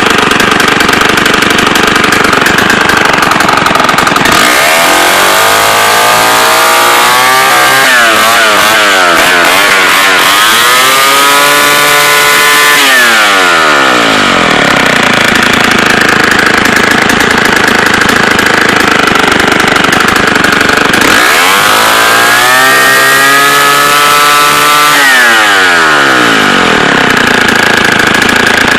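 Vintage Homelite 770D two-stroke chainsaw running at idle and being revved up three times, its pitch climbing and then falling back to idle. The first rev wavers up and down before dropping away.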